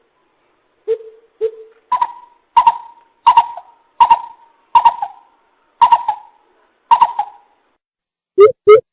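Coucal calling, a series of hoots: two lower hoots about a second in, then a run of about seven higher hoots, evenly spaced.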